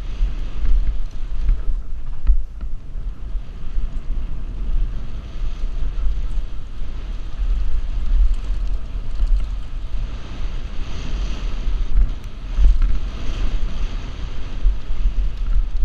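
Wind buffeting a helmet-mounted GoPro's microphone during a fast downhill mountain bike descent: an uneven low rumble with a rushing hiss that swells and drops throughout, and a few faint clicks from the bike over rough ground.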